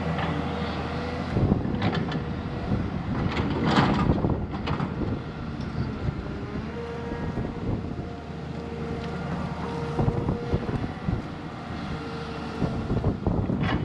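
Diesel engine of a heavy earthmoving machine running steadily, with several loud knocks and clanks over it, the loudest about four seconds in.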